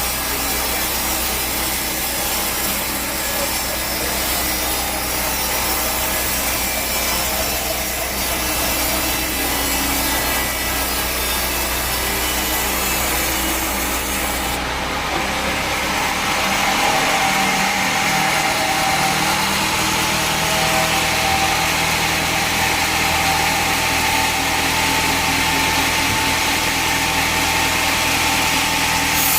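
Bandsaw sawmill blade cutting through a teak log, a steady rasping saw noise. About halfway through the sound shifts, turning a little louder and harsher in the upper range.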